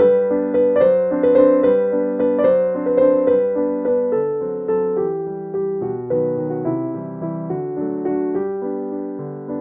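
Background piano music: a gentle melody of struck notes, each fading after it sounds.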